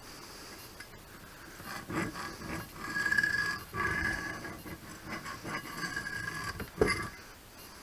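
Marking tool scratching and squeaking across a steel plate blank while a bolt circle is laid out, with a sharp click near the end.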